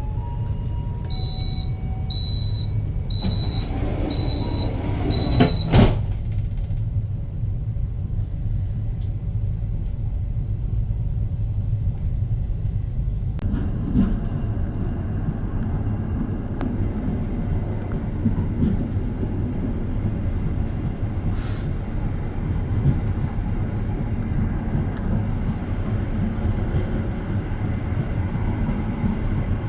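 Argo Bromo Anggrek express train running at speed, heard from inside a passenger car: a steady low rumble. Near the start come five high electronic beeps about a second apart and a short rush of noise that ends in a sharp knock about six seconds in; from about halfway a rougher rattle joins the rumble.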